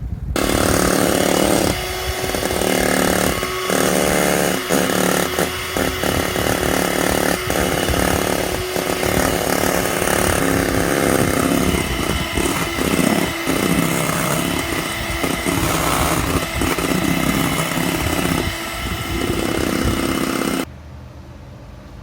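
A loud motor running steadily, with a constant hum under a rough, noisy whirr, for about twenty seconds before it cuts off abruptly near the end.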